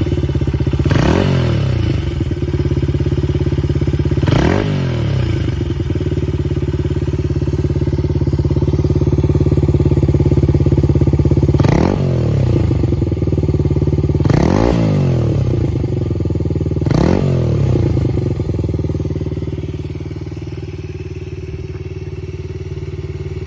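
Honda XLR80's single-cylinder four-stroke engine idling through an aftermarket Daytona DAMOS muffler, blipped five times, each rev rising and falling quickly.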